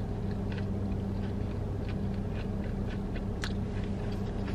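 Chewing and crunching on a bite of fried fast food, a few faint crackly crunches at a time, over a steady low hum in the car's cabin.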